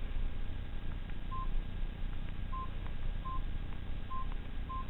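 House phone keypad beeping as buttons are pressed: five short beeps at uneven intervals, each with a faint button click.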